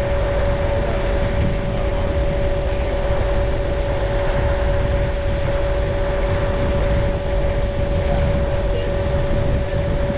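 Vehicle engine running steadily: a constant drone with a low rumble and a steady whine.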